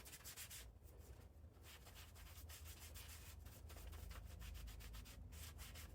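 Faint, quick rubbing strokes from wiping Fluid Film lubricant off a phone.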